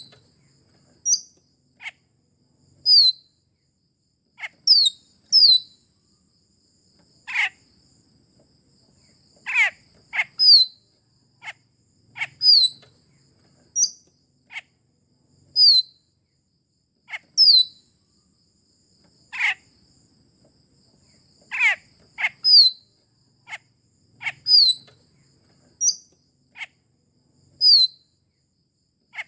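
Raja perling (Sulawesi myna) calling: short, sharp notes that sweep quickly downward in pitch, repeated every second or two. A steady, thin, high-pitched drone runs underneath, like an insect.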